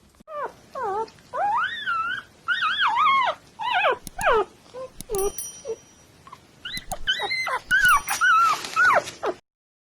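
A puppy whining and whimpering in a run of short, high cries that rise and fall in pitch, with a few sharp clicks partway through.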